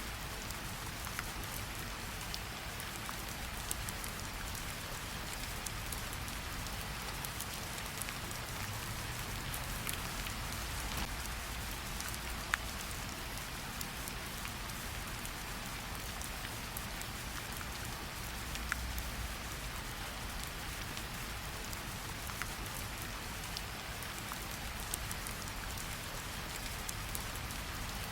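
Gentle rain falling on tree leaves: a steady patter with scattered louder single drops dripping from the leaves.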